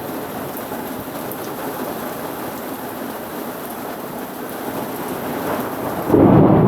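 Steady rain, then about six seconds in a sudden loud clap of thunder from a very close lightning strike.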